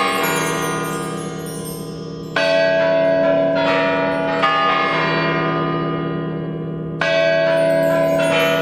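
Deep bell tones ringing, struck afresh twice several seconds apart, each stroke ringing on and slowly fading.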